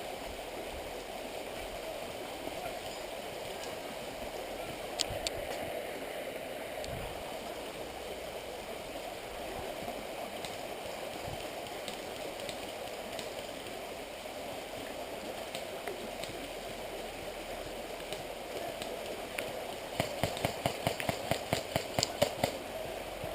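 Steady rushing background noise; near the end, a quick string of about a dozen sharp cracks, roughly four a second: an airsoft M4 fired rapidly in semi-automatic mode.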